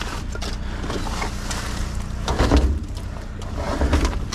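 Items being handled and knocked about while rummaging in a dumpster, with scattered clicks and a few louder clatters, over a steady low engine hum.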